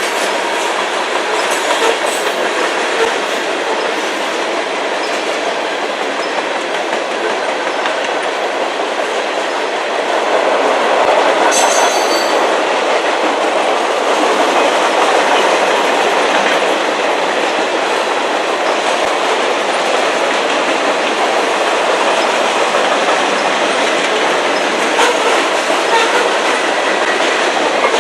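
Freight cars of a passing manifest train rolling by, a steady rumble with wheels clicking over rail joints. It grows louder about ten seconds in, and a short high metallic screech comes at about twelve seconds.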